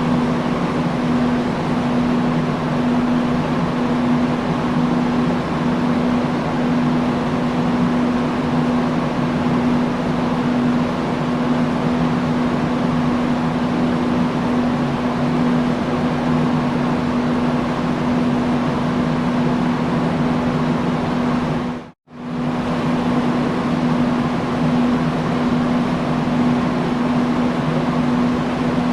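Industrial fan running steadily: a constant rush of air over a low, even motor hum. The sound drops out for a split second about three-quarters of the way through, then resumes unchanged.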